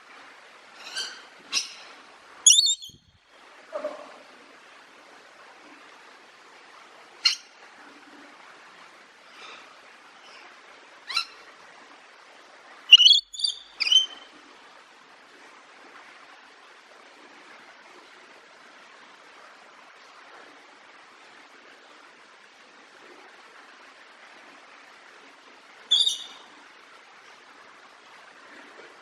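A bird chirping in short, high calls at irregular intervals, with a quick cluster about thirteen seconds in, over a faint steady hiss.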